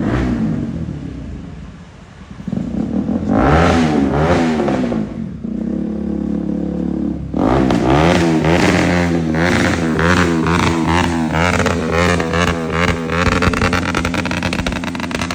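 Bajaj Pulsar NS200's single-cylinder engine through an aftermarket Akrapovic exhaust, revved hard. It blips up and falls back to idle about three seconds in, then is revved repeatedly from about seven seconds, with a rapid crackle of exhaust pops coming through the later revs.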